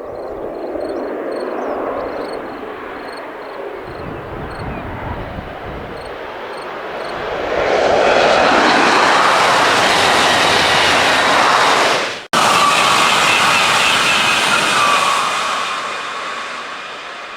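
TGV high-speed train passing at full speed: a rushing noise that builds, is loudest for several seconds in the middle, then fades away. The sound breaks off for an instant about twelve seconds in.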